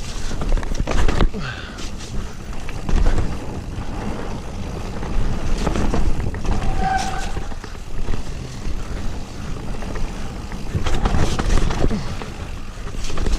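Mountain bike riding fast down a muddy, rooty trail: steady rushing rumble with repeated knocks and rattles as the bike hits the ground, and a brief squeal about halfway through.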